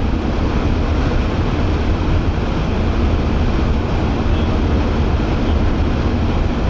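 Steady road noise inside a moving vehicle: a constant rumble of tyres and engine, with no let-up or change.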